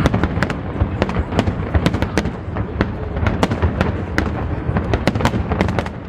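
Aerial fireworks display: a dense run of sharp cracks and bangs, several a second, over a continuous low rumble of shell bursts echoing across the harbour.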